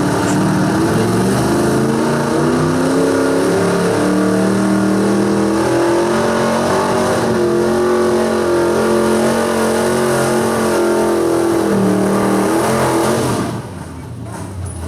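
Super stock 4x4 pulling truck's engine at full power under load, its pitch rising and falling in steps as the driver works the throttle to control bounce. About 13 seconds in, the engine is cut back sharply and drops to a lower rumble as the pull ends.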